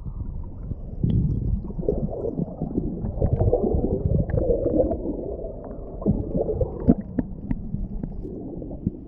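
Muffled rumbling and gurgling of hot-spring water, with a few faint clicks; everything above a low range is cut off.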